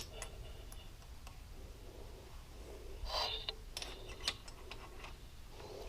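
Small metal engine parts being handled and fitted by hand: a few light clicks and taps, with a brief rustle about three seconds in.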